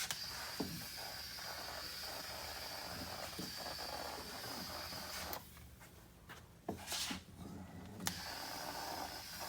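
Steady hiss of air from a Redline EZ50 powder coating gun spraying. It stops about five seconds in, a few sharp clicks follow, and the hiss starts again near the end.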